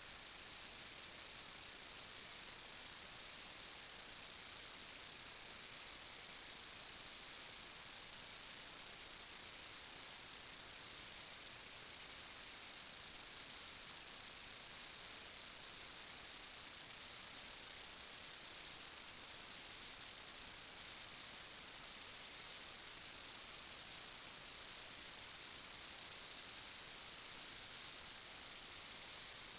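Steady, unchanging high-pitched hiss with a thin whine in it.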